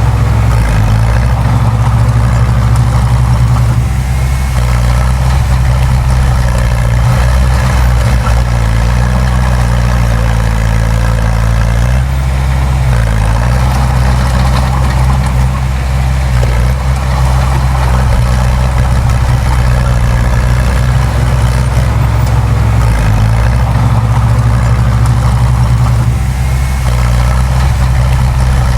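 Heavy diesel engine of earthmoving machinery running steadily under load, its low drone shifting slightly in pitch a few times.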